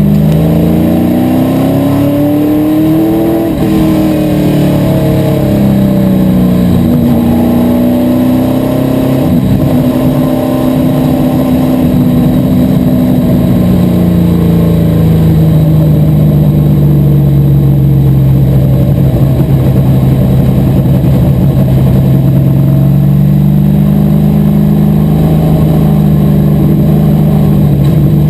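Asphalt modified race car engine running hard under racing load, its pitch climbing and falling again and again as it accelerates and lifts through the laps.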